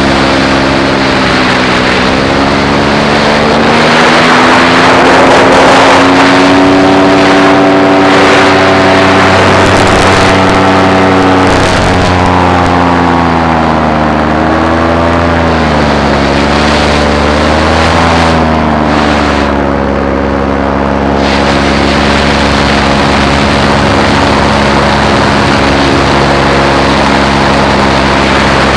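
Paramotor engine and propeller running loud and steady in flight. Its pitch rises and falls a few times through the middle, then settles again.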